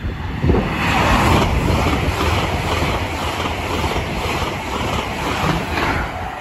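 High-speed passenger train passing through the station at speed: a loud rush of air and wheel-on-rail noise that builds about half a second in and eases off near the end, with a faint regular clatter of wheels over the rails.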